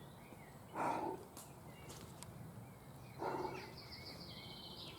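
Faint outdoor ambience with two brief soft rustles, about a second in and again past the three-second mark, and faint bird song with a quick run of repeated high notes over the last second and a half.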